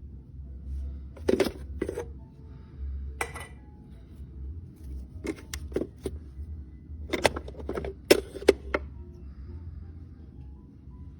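Handling noise: a series of light clicks and knocks, some in quick pairs or clusters, over a low steady hum.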